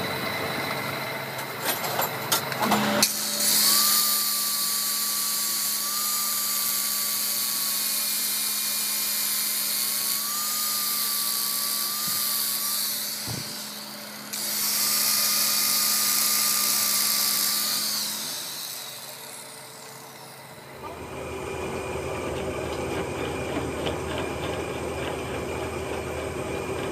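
Workshop power tool running in two long stretches with a steady whine and a hiss, about ten seconds and then about four, after a few clicks. Near the end a low, steady machine rumble takes over.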